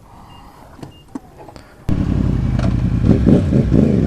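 A few faint clicks over a quiet background, then about two seconds in a motorcycle engine cuts in abruptly and runs loud and steady.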